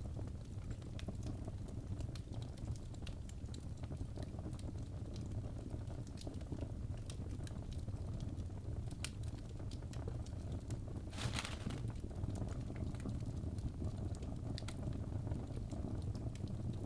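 Wood fire burning in a fireplace, crackling with scattered sharp pops over a steady low rumble, with a brief hiss about two-thirds of the way through.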